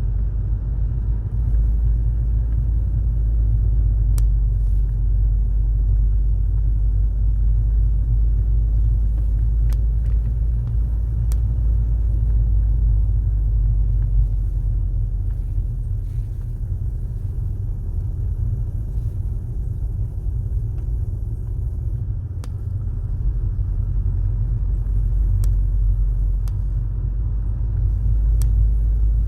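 Car driving, with a steady low rumble of road and engine and a few faint clicks scattered through it.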